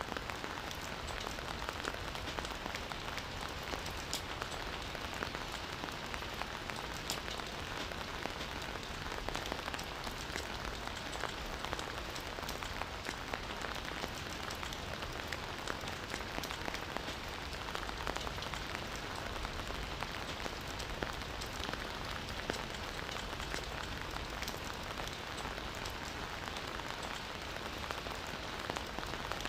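Steady rain falling in a forest, an even hiss with many small drop patters on surfaces.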